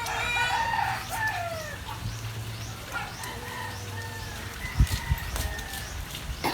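A rooster crowing: one long call that trails off about two seconds in.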